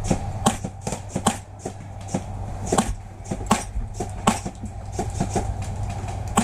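Airsoft rifle, a Wolverine MTW HPA gun, fired in single shots: about ten sharp clicks at irregular intervals over a steady low hum. The shooter suspects its hop-up is off.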